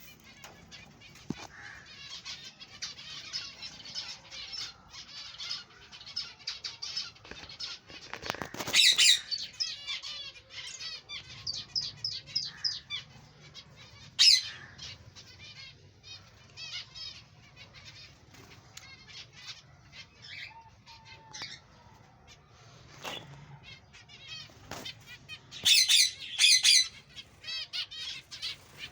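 A colony of small aviary finches chirping and calling continuously, many short high calls overlapping. There are louder bursts about nine, fourteen and twenty-six seconds in.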